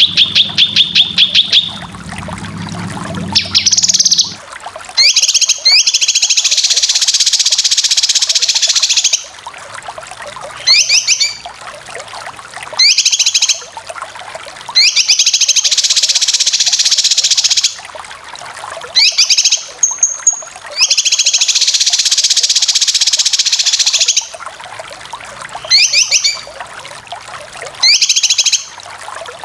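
Cucak kinoy songbird singing harsh, rapid chattering 'besetan' phrases. Each dense burst lasts about three seconds and alternates with short, quick sweeping notes, repeating several times. It opens with a fast run of ticking notes.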